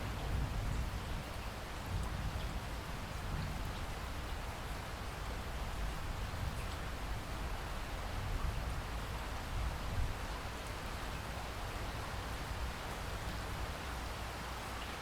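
Steady rainfall: an even hiss of rain with faint scattered drops, heaviest in a low rumble.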